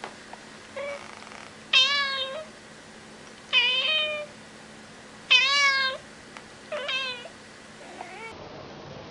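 Kitten meowing repeatedly: about five high-pitched calls, each around half a second long, coming every one and a half to two seconds.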